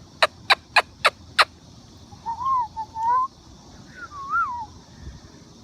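Five sharp clicks, about three a second, then a Moluccan cockatoo whistling two short phrases that glide up and down in pitch.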